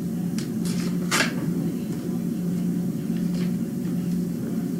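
Short rustles of paper as a greeting card is handled and opened from its envelope, the loudest about a second in, over a steady low hum.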